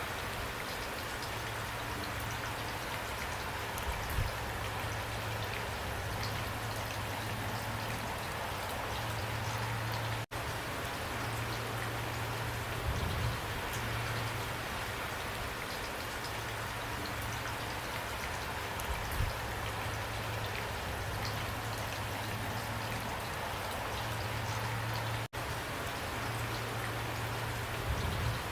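Steady rain: a dense, even hiss with individual drops ticking through it, over a low steady hum. The sound drops out for an instant twice, about ten seconds in and again near the end.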